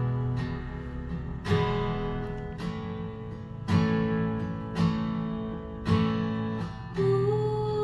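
Acoustic guitar strumming chords in a slow, even rhythm, about one strum a second, each chord left to ring; a long held note comes in near the end.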